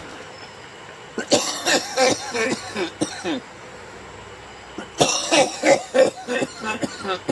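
A person coughing in two spells, one about a second in and another about five seconds in.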